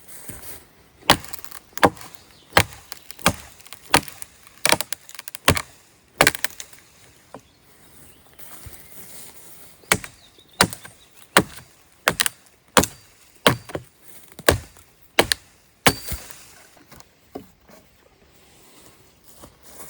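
Wood being chopped by hand: sharp, regular blows about every two-thirds of a second in two runs, separated by a pause of a few seconds in the middle.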